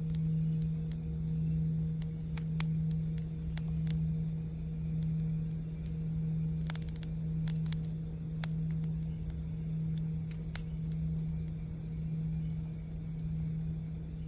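Singing bowl ringing with a steady low hum that swells and fades slowly and evenly, over the scattered crackles and pops of a campfire.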